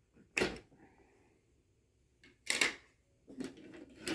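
Sharp plastic clacks of HO-scale model railway track sections being handled as a straight section is unsnapped and taken out: two distinct clacks about two seconds apart, with a softer rustle near the end.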